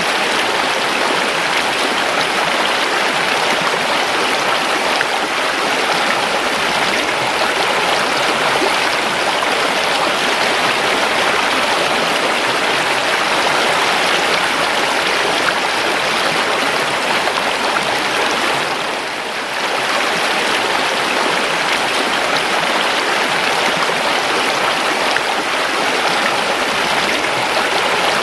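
River water flowing, a steady, unbroken rush that eases off for a moment about two-thirds of the way through.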